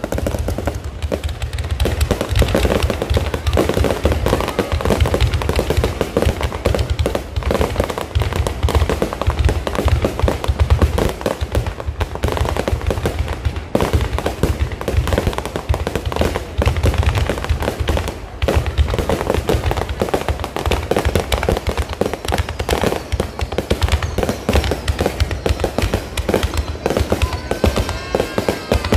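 Low-altitude fireworks going off continuously: dense crackling and popping over steady heavy low booms, with a few whistling glides near the end.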